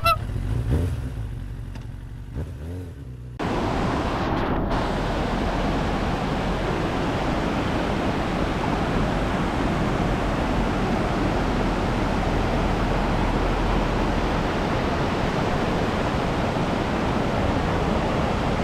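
Rushing river water, a steady, even rush that cuts in abruptly about three seconds in after a quieter, muffled stretch.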